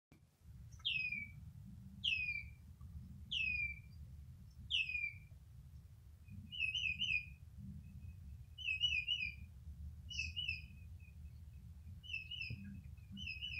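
A bird calling: four clear whistles that slide downward, about a second apart, then quick triple chirps repeated about once a second, over a low steady hum.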